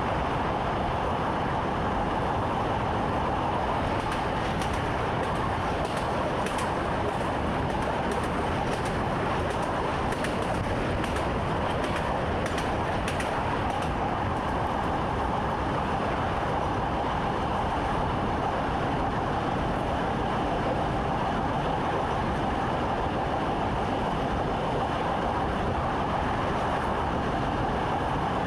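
Electric train running steadily on the line, heard from inside the driver's cab: a continuous rumble and hum from the running gear and track, with a scatter of faint clicks from about four to thirteen seconds in.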